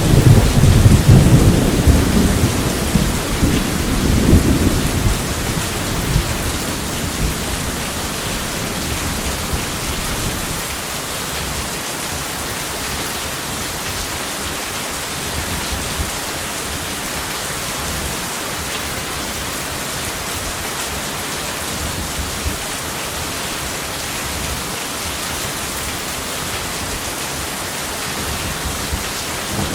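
Heavy rain falling steadily, with a roll of thunder rumbling over the first five seconds or so and fading out. A new rumble begins right at the end.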